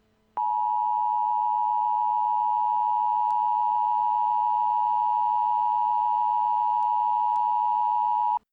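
Emergency Alert System attention signal: a steady, loud electronic alarm tone that starts abruptly about half a second in, holds for about eight seconds, and cuts off suddenly, marking the start of a blizzard warning broadcast.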